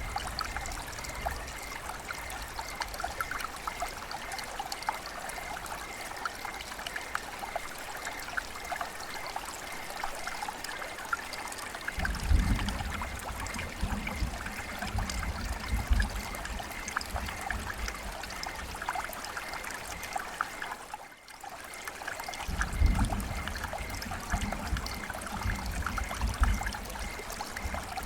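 River water flowing and trickling, a steady rush dotted with many small splashes. A low rumble comes in about twelve seconds in, and again after a short drop-out a little past the twenty-second mark.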